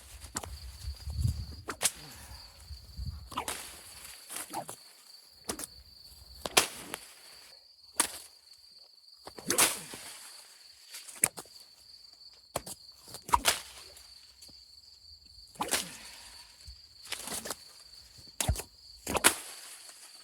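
Nylon whip being cracked over and over, about a dozen sharp cracks at uneven intervals of one to two seconds, some with a short swish before the crack. A steady insect trill runs underneath.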